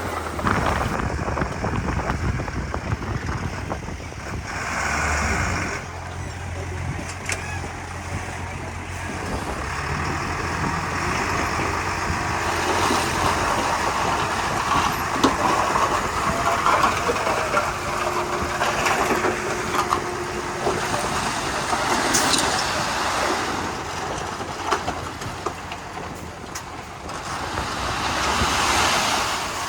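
Komatsu D31P crawler bulldozer at work, its diesel engine running under a varying load with mechanical clatter. There are two louder hissing surges, one about five seconds in and one near the end.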